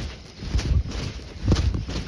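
A person's footsteps walking at a steady pace, in an even rhythm with every other step louder.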